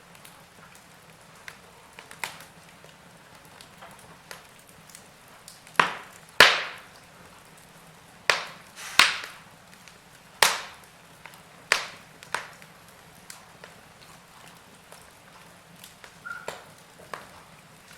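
Wood fire in a fireplace crackling: about a dozen sharp pops and snaps at irregular intervals, the loudest around six and ten seconds in, over a soft steady hiss.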